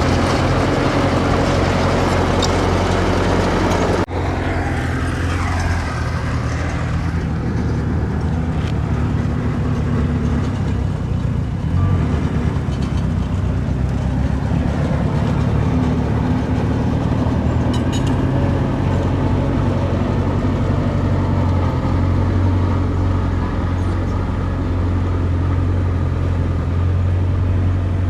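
Diesel engines of earthmoving machinery running steadily, with an abrupt change in the sound about four seconds in.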